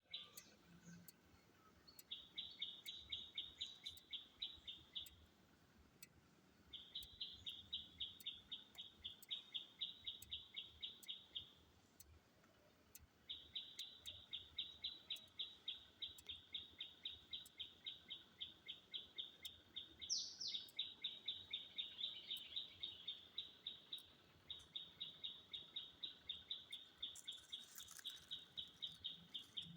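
A bird calling in long runs of rapid, evenly repeated high chirps, about five a second, each run lasting several seconds with short pauses between, and one brief rising note about two-thirds of the way through.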